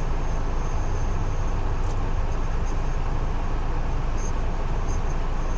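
Freight train cars rolling past in a steady rumble, with faint high squeaks now and then and a brief sharp tick about two seconds in.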